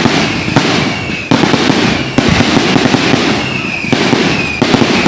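Fireworks display: a loud, dense, continuous barrage of rapid bangs and crackles, with a few faint falling whistles.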